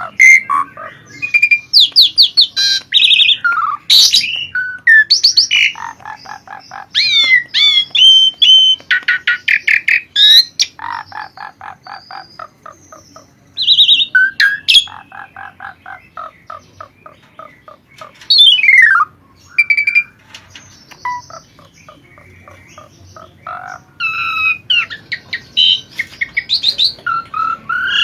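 Asian pied starling (jalak suren) singing a loud, varied song. It mixes fast rattling runs of repeated notes, whistled up- and down-slurs and harsh squawking calls, with short pauses between phrases.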